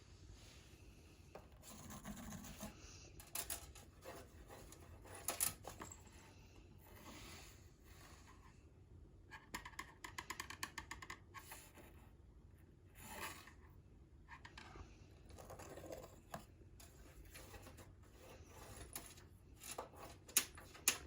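Faint scratching, tapping and skittering of a cat's paws and claws on the floor as it plays fetch with a small thrown toy, with a quick run of ticks midway and a few sharp clicks near the end.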